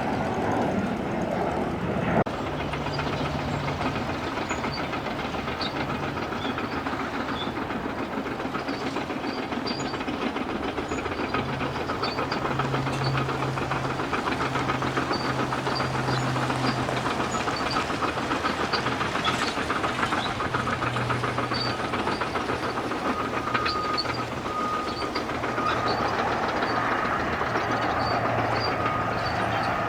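Jet airliner engines running at a steady roar with a low hum, a thin high whine joining in the last several seconds.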